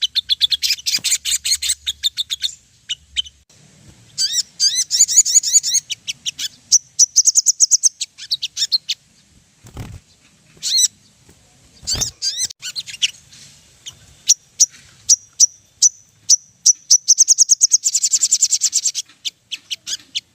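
A sogon (sunbird) giving rapid, high chittering trills and ticking calls in repeated bursts, with dense trilling at the start and again near the end: a lure call used to make other sunbirds answer. Two sharp knocks come about halfway through.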